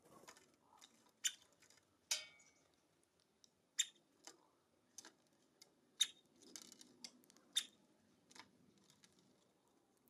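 Short, sharp ticks from birds at a feeder, about eight of them at irregular intervals, with a soft rustle a little after six seconds in.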